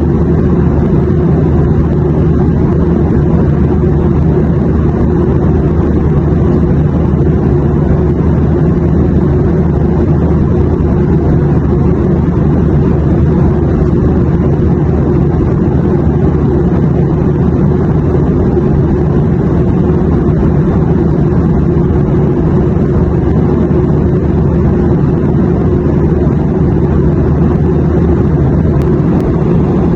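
Airplane noise: an even, unbroken rumble, heaviest in the low range, with no changes or separate events.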